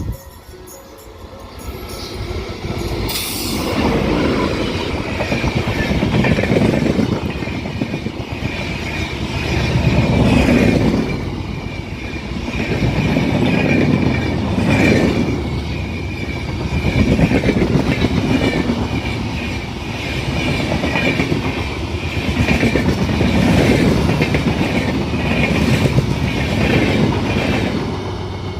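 Express train running on the rails: a steady rumble of wheels on track that swells every three to four seconds, with a thin high wheel squeal running through it.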